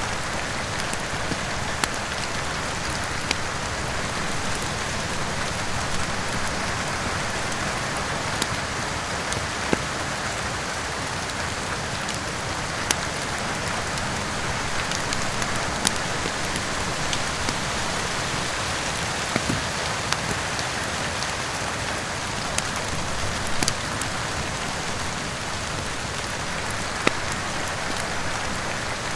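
Steady rain hiss with a fireplace fire crackling, sharp pops and snaps standing out every second or few.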